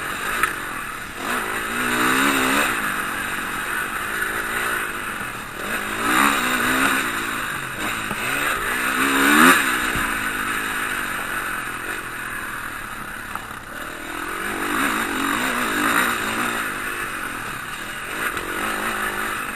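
Motocross bike engines racing, revving up and dropping back again and again as they rise and fall in pitch, loudest about halfway through.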